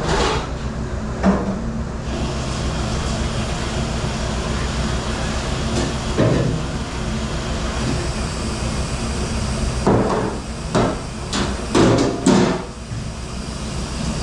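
Dishes and trays knocking and clattering, a few single knocks and then a quick run of loud ones near the end, over the steady hum of dish-room machinery.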